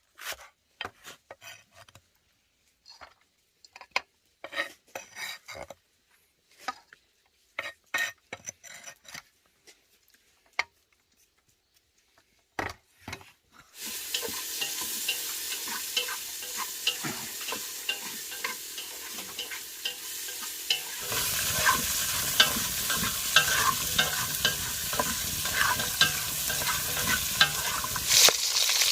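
Scattered knocks and taps of food being handled, then about halfway through food starts sizzling in a hot pan, a steady hiss with crackles that grows louder a few seconds later.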